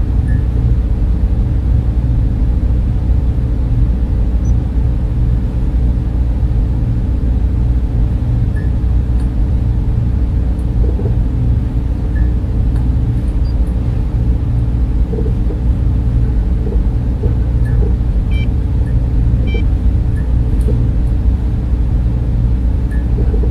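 Server room cooling fans running steadily: a loud, deep, even hum with a faint tone above it and a few faint ticks.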